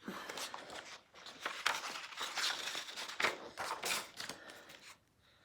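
Paper rustling as the pages of a picture book are handled and turned: an irregular run of crinkles and scrapes.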